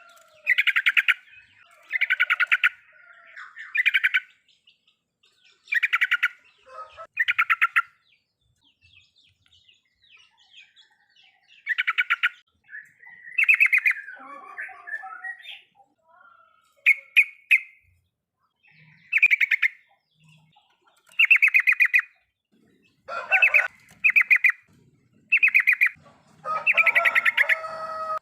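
Yellow-vented bulbul (trucukan) giving its 'riwikan' chatter: short bursts of rapid repeated notes, each under a second long, coming every second or two, with a few seconds of only faint notes about a third of the way in.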